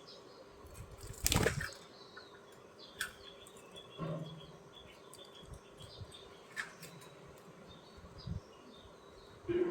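Budgerigars: a short burst of wing flapping about a second and a half in, with faint chirps, a few sharp clicks and soft knocks.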